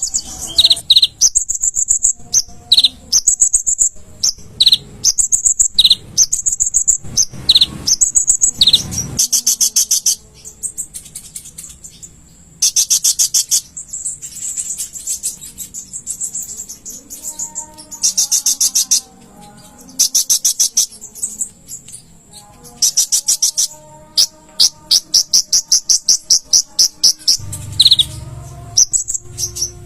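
Kolibri ninja sunbird singing: high, sharp chirps alternating with long, fast buzzy trills, repeated over and over.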